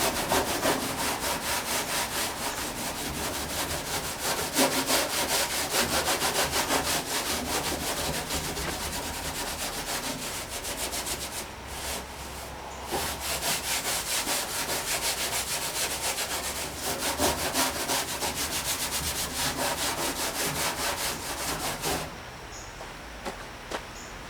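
A Scotch-Brite abrasive pad scrubbed by hand over the painted steel body of a 1959 VW single cab truck, in rapid back-and-forth strokes, rubbing paint away to uncover old lettering. The scrubbing stops briefly about twelve seconds in and eases off near the end.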